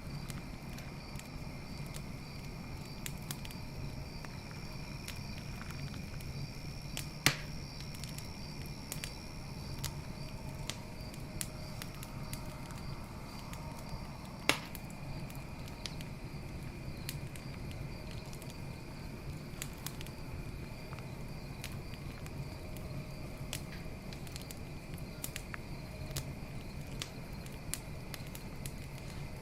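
Wood campfire crackling with many small snaps over a low steady rumble of flames, and two loud pops, about seven and fourteen seconds in. Crickets chirp steadily in the background.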